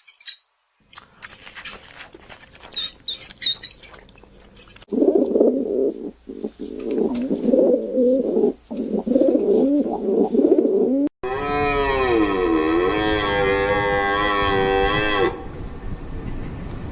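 Short high chirps for about five seconds, then a run of quick, wavering animal calls, then a single long cow moo lasting about four seconds that dips in pitch near its start.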